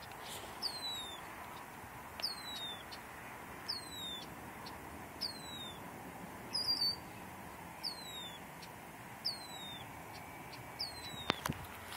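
A bird repeating a single high whistle that slides downward, about once every one and a half seconds, over a faint steady background hum.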